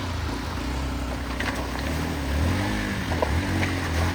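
A motor vehicle engine, most likely a motorcycle, running with a steady low drone and a brief rise and fall in pitch about halfway through, over a steady hiss of rain.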